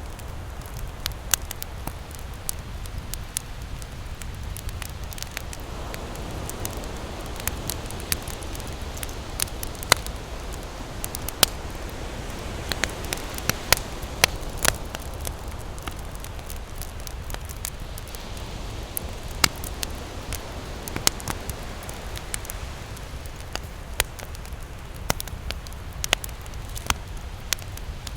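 Wood campfire crackling, with many irregular sharp pops and snaps. Under it runs the steady low rumble of ocean surf, which swells a little around the middle.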